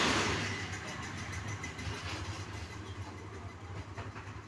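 Steady low engine-like rumble, like a motor idling, after a brief loud rush of noise at the very start.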